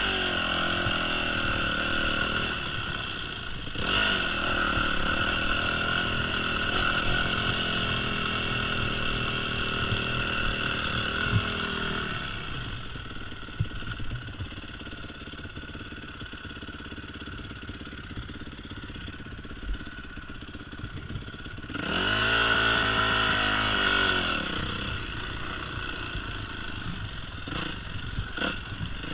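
Yamaha YZ250F four-stroke single-cylinder dirt bike engine under way, the revs rising and falling as it is ridden: higher revs in the first stretch, a quieter spell at lower revs in the middle, and a fresh burst of revs near the end.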